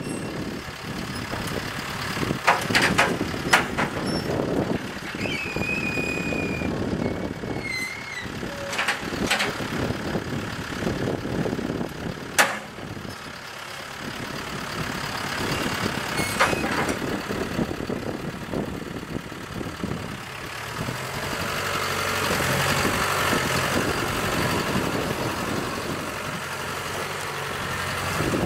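Tractor engine running under work, with sharp metallic knocks and clanks every few seconds and a brief high squeal near the first third.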